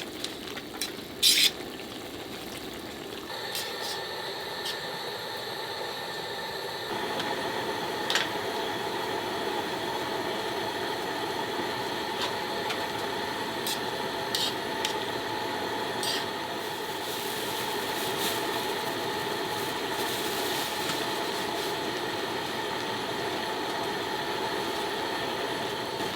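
Spicy pork stir-fry (jeyuk-bokkeum), still partly frozen, sizzling and simmering in a pan over low heat as it thaws and cooks. There are a few sharp clicks near the start, and a steady hum underneath.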